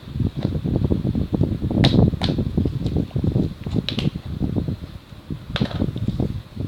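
Slime being squished and worked by hand, with rapid crackling and popping, and a few sharper pops among them. Wind rumble on the microphone runs underneath.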